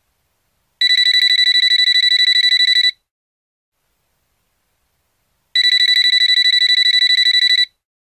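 Telephone ringing twice, each ring a rapid high-pitched trill lasting about two seconds, with a pause of about two and a half seconds between them: the ring of an incoming call.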